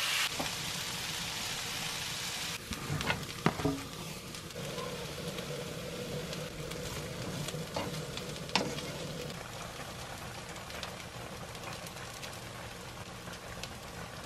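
Julienned potato and carrot sizzling steadily in oil in a frying pan as they are stir-fried with a wooden spatula. A few sharp knocks come about three seconds in and again past the middle.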